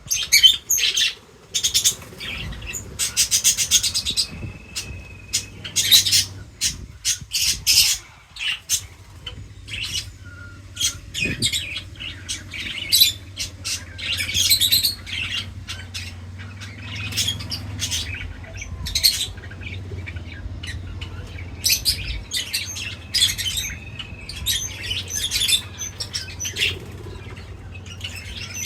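A flock of small birds chirping and squawking in quick, dense bursts, with twice a short held whistled note. A low steady hum runs underneath.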